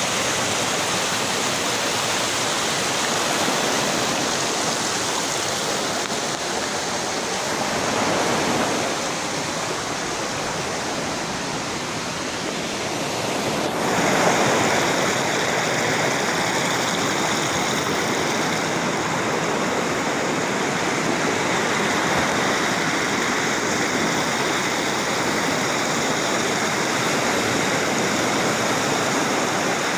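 Rushing water of a waterfall, a steady full noise that changes abruptly in tone about halfway through.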